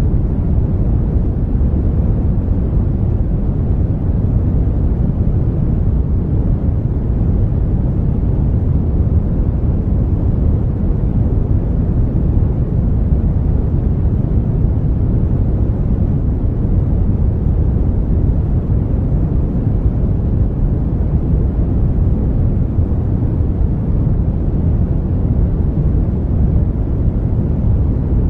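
Brown noise: a steady, even hiss weighted to the bass, a deep rumble with little treble and no changes.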